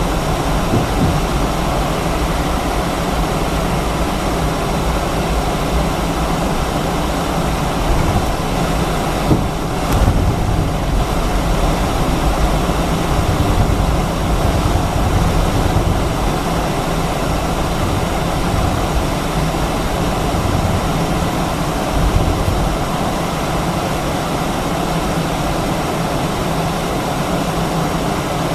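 Cabin noise inside an Airbus A319 with its IAE V2500 engines running at idle: a steady low rumble and a hiss, with a few brief louder swells.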